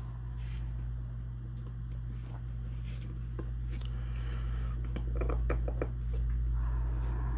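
Small metal clicks and scrapes of shotgun fore-end parts being handled and worked by hand, a few scattered at first and then a quick cluster about five seconds in, over a steady low hum.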